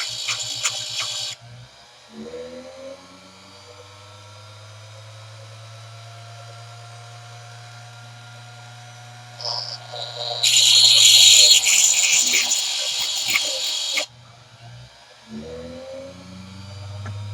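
Grinder running with a steady hum while a lathe tool bit is pressed to the wheel, giving a loud hissing grind for about the first second and again for about four seconds past the middle as the tool's rake and clearance faces are ground.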